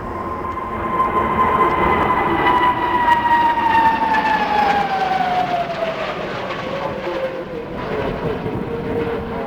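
Aermacchi MB-339 jet's turbojet engine as the aircraft flies past: a steady roar with a whine that falls slowly in pitch over most of the stretch, then levels off near the end.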